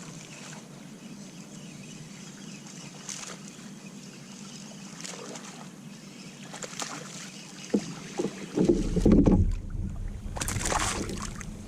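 Steady hiss of wind and water around a kayak. About eight and a half seconds in, a heavy low wind rumble on the microphone sets in, with a few louder splashy bursts.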